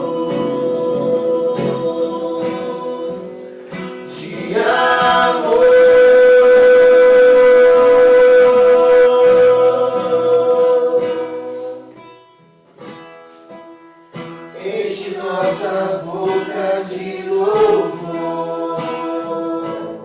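Voices singing a Portuguese Christian worship song to an acoustic guitar, with one long held note about five seconds in. The music drops away briefly past the middle, then the singing and strumming pick up again.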